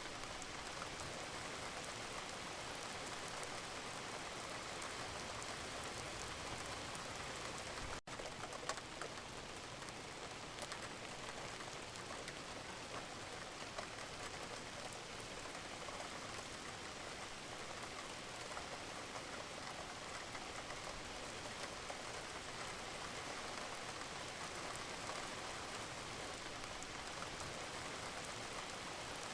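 Steady rain falling, an even hiss with scattered individual drops heard as faint ticks. The sound cuts out for a split second about eight seconds in.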